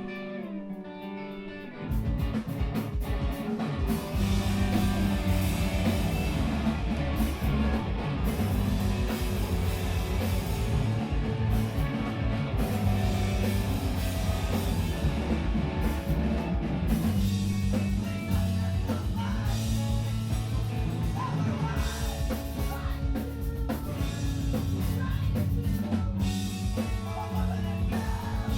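Screamo band playing live: a guitar alone at first, then the drums, bass and guitars come in together about two seconds in, with vocals over them.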